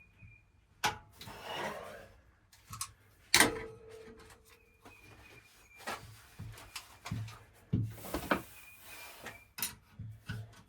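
Hands-on work noises: irregular knocks and clatter of tools and parts being handled, with stretches of scraping. One sharp knock about three and a half seconds in is the loudest and rings briefly.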